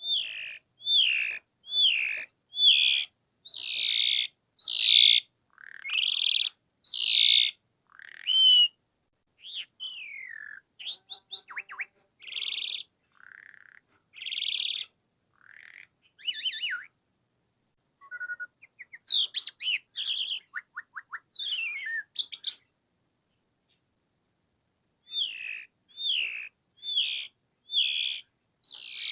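Asian pied starling (jalak suren) singing in full, loud song. It opens with a run of repeated falling whistles about one a second, moves into a varied stretch of chattering notes, squeaks and quick trills, then pauses briefly before the repeated whistles start again near the end.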